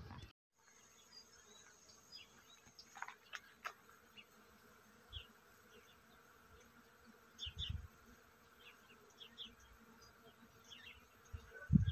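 Faint, steady buzzing of a flying insect, with scattered short high chirps from birds and a few low handling thumps.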